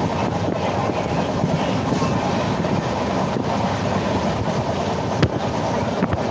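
Moving passenger train heard from inside the carriage at an open window: a steady running rumble with wind on the microphone. There is a sharp click about five seconds in.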